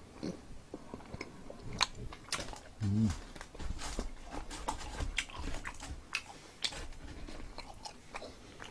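Close-up crunching and chewing of crispy fried food, with irregular sharp crackles as it is bitten and chewed. A short low voice sound comes about three seconds in.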